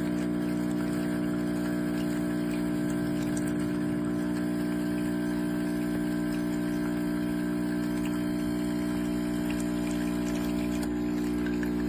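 Espresso machine's 20-bar pump running with a steady, even hum, as when a shot is being pulled.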